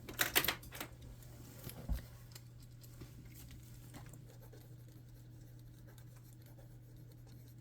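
A burst of clicks and rustling in the first two seconds as small objects are handled in a search for a pen, with a few fainter taps after, then only a faint steady low hum.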